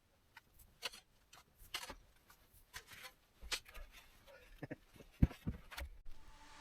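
Faint, scattered clicks and knocks at irregular intervals, a few sharper ones in the second half.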